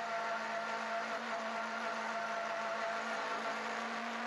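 Opel Corsa KIT rally car's engine heard from inside the cockpit, pulling at steady high revs with an almost constant pitch, wavering slightly near the end.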